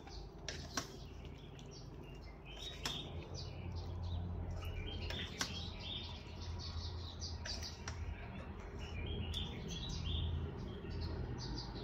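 Small birds chirping: many short calls repeated throughout, with a few sharp clicks in between.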